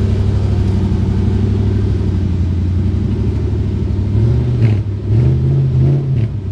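Nissan 240SX's swapped Infiniti VH45DE V8 idling steadily, then blipped up and back down three times in quick succession near the end.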